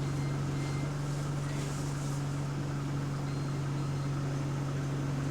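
Steady low drone inside a bus, one constant hum that holds its pitch over the noise of the running engine and air conditioning.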